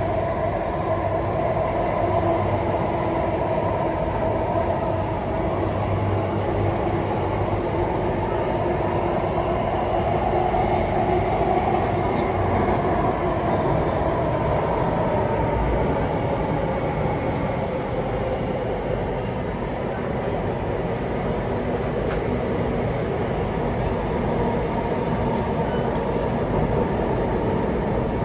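Interior running noise of a Singapore Circle Line MRT train in motion between stations: a steady rumble with a continuous hum from the drive.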